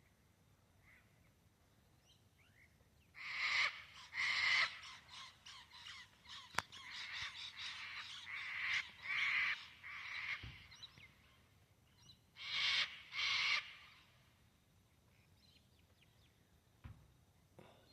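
Harsh, raspy bird calls: two loud calls about three seconds in, a run of shorter chattering calls over the next several seconds, then two more loud calls about twelve seconds in.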